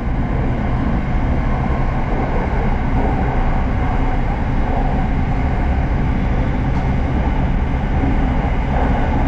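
SRT Red Line electric commuter train running at speed along an elevated track, heard from inside the carriage as a steady, even running noise with a low rumble.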